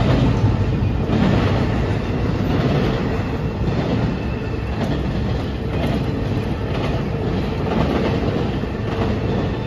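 CSX freight train rolling across a street crossing: a steady rumble of the cars with wheels clicking over the rail joints about once a second.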